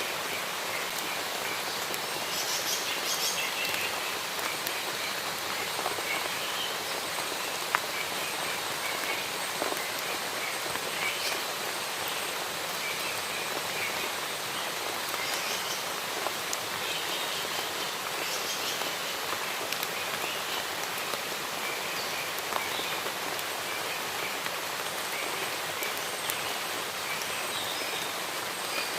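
Steady rain falling in a forest, with single drops clicking sharply now and then. Birds chirp faintly at times through the rain.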